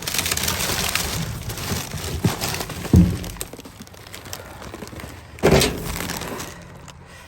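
Trash being rummaged through in a dumpster: dense rustling and clattering, then a loud thunk about three seconds in and another knock about five and a half seconds in as items are moved and dropped.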